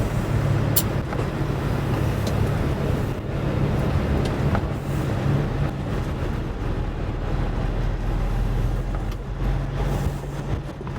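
Semi-truck diesel engine running steadily with road noise, heard from inside the cab while driving. Faint clicks come about a second in and again at about two seconds.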